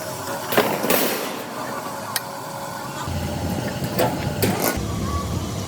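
Sheet-metal workshop noise: a steady machine hum with scattered sharp metal knocks and clanks.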